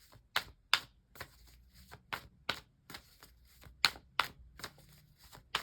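A run of sharp, irregular clicks and taps, two or three a second, from tarot cards being handled and laid out.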